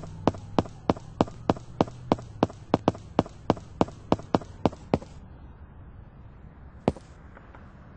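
A quick series of sharp taps, about three a second and slightly uneven, that stops about five seconds in, with one more tap near the end. A low hum runs under the first few seconds.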